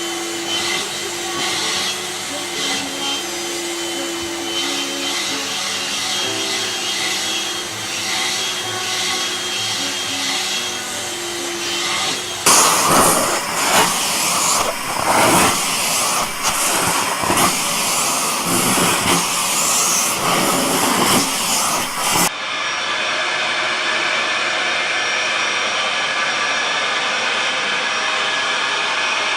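Vacuum cleaner running, a continuous machine whirr. Its sound changes abruptly twice, with a louder, uneven stretch in the middle and a steady, even whirr at the end.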